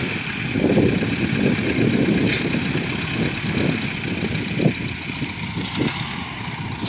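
T-40 wheeled tractor's air-cooled diesel engine running steadily.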